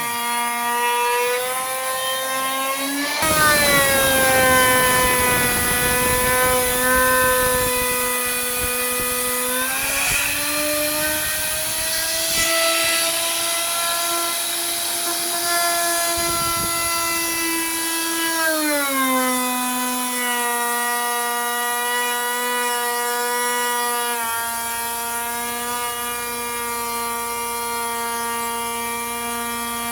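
An electric power tool's motor running with a steady high whine. From about three seconds in until about eighteen seconds, a rough grinding noise joins it as the tool works the wood, and the pitch dips, then rises. The tool then runs free again, its pitch settling back.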